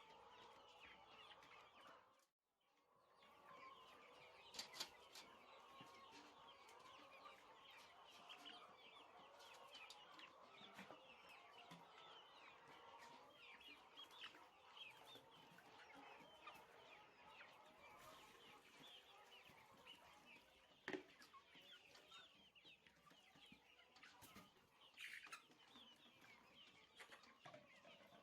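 A flock of chickens clucking and chirping faintly and continuously, with a few sharp knocks. The sound drops out briefly early on.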